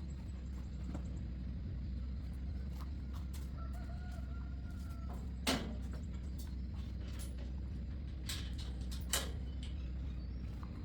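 A rooster crowing once, a held call of about two seconds around the middle, over a steady low hum, with a few sharp knocks, the loudest just after the crow.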